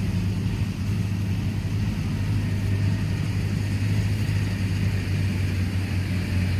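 Kubota DC95 combine harvester's diesel engine running steadily, a constant low drone with no change in pitch.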